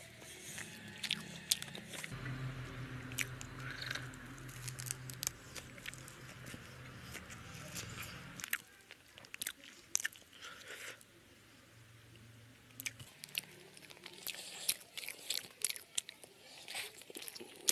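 A person biting and chewing crisp fried food close to the microphone: sharp crunches and wet mouth clicks, with a short lull about two-thirds of the way through.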